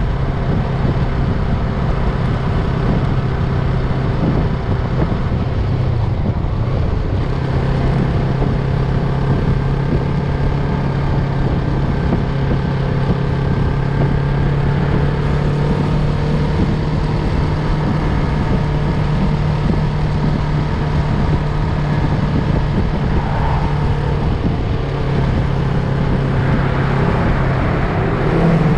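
Motorcycle engine running at a steady cruising note under constant wind and road noise while riding.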